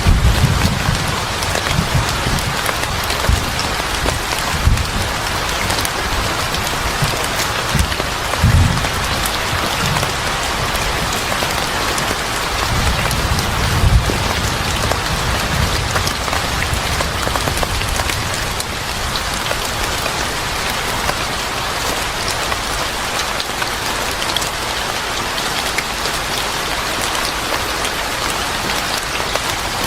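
Steady heavy rain falling, with a few deep low rumbles coming and going in the first half.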